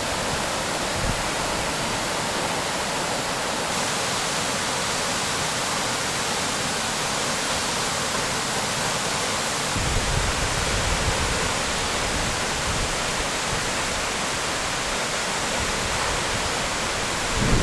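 Mountain waterfall rushing steadily. From about halfway through, wind buffets the microphone with low rumbling gusts.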